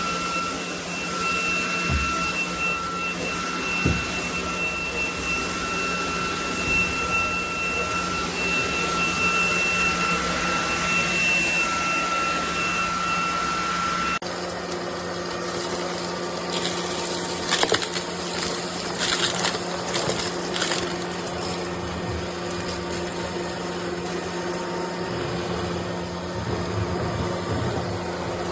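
SunSare X11 cordless stick vacuum running, its motor giving a steady high whine. About halfway through, the sound changes abruptly to a lower hum with scattered crackles and clicks.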